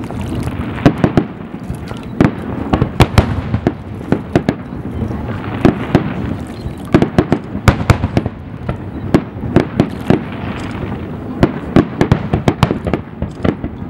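Fireworks display: aerial shells bursting in a rapid, irregular run of bangs, often several a second, over a continuous rumble.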